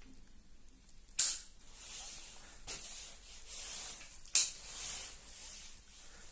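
Two sharp mechanical clicks about three seconds apart, each followed by a short hissy rustle, with fainter rustling between them.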